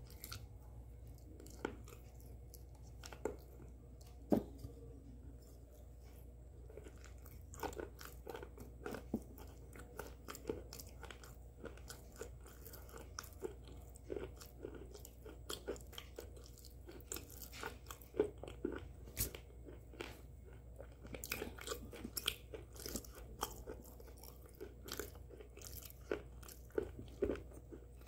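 Close-miked mouth chewing and biting of something hard and crunchy: a long run of sharp crunches, scattered at first and coming thick and fast in the second half.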